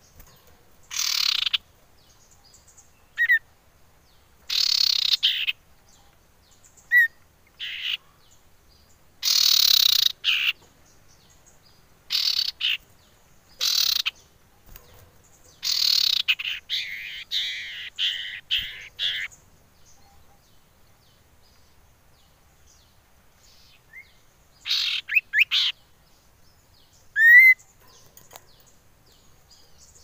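Common iora calling: separate phrases of harsh, high chattering notes, each under a second, with a longer rapid chattering run near the middle. Short clear whistles come in between, including a sharp rising whistle near the end.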